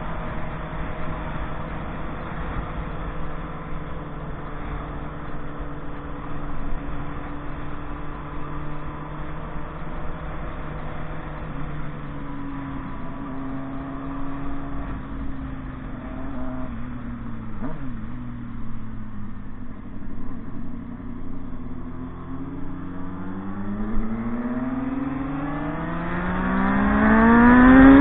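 Motorcycle engine running at a steady speed, easing off about two thirds of the way through, then revving up hard near the end, its pitch climbing as it accelerates.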